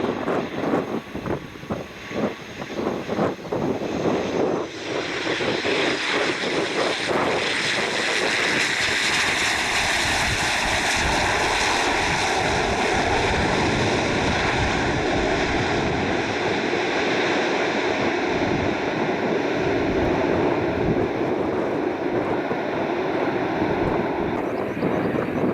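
Aircraft engines running loud and steady from about four seconds in, a rushing noise with a thin whine through it. Wind buffets the microphone in the first few seconds.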